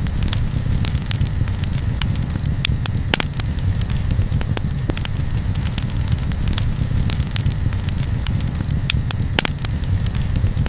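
Campfire crackling, with irregular sharp pops and snaps over a steady low rumble. A short high chirp repeats every second or so in the background.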